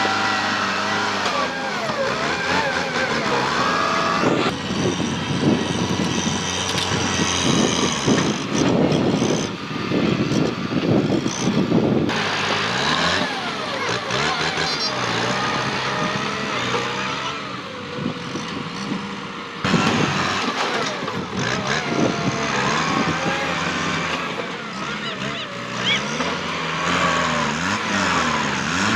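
Kubota tractor's diesel engine working under load while pushing through brush, its pitch wavering up and down. In the middle there is a spell of crackling and snapping. The sound changes abruptly a few times.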